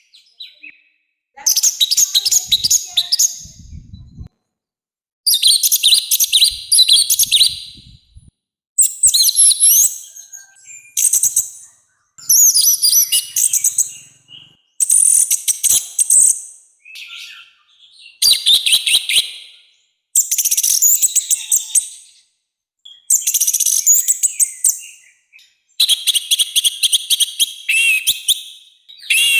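Orange-headed thrush (anis merah) singing a loud, harsh song in repeated warbling phrases of about two seconds each, with short pauses between them.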